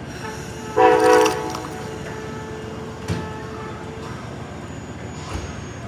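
Amtrak locomotive horn sounding one short blast about a second in, over the steady rumble of the train, with a couple of faint knocks later on.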